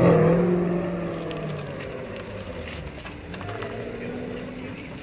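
High-performance car engine revving as it pulls away: the note climbs, holds high for about a second and a half, then fades as the car drives off, leaving quieter running from the other cars.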